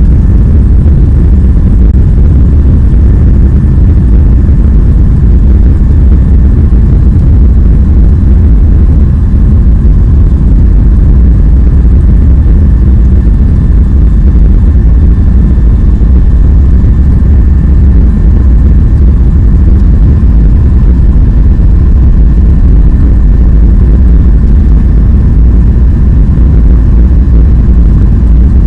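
Jet airliner taking off: a loud, steady low rumble of engine and airframe noise, with a faint steady high whine over it.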